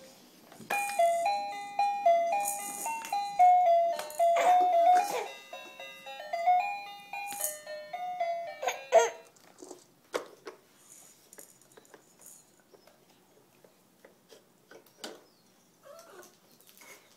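A simple electronic tune of single stepping notes plays for about eight seconds and then stops, followed by a few faint clicks and rattles.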